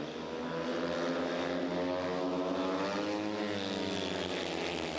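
Pack of speedway motorcycles racing, their 500 cc single-cylinder methanol engines running together at high revs. The engine note rises and then dips again about three seconds in as the riders go through the bend.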